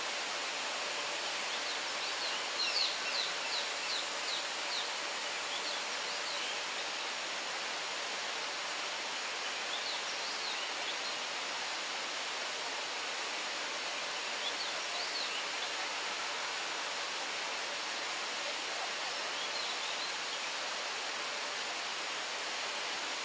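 Small birds calling over a steady outdoor hiss: a quick run of about eight high, falling chirps a couple of seconds in, then shorter bursts of chirps about halfway through and near the end.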